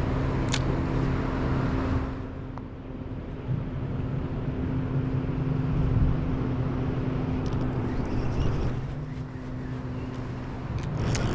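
Steady low motor hum with a rushing noise over it, louder for about the first two seconds, then quieter.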